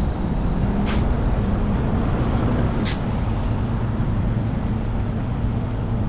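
Semi truck's diesel engine running steadily, with two short sharp hisses of air, about two seconds apart, near the start.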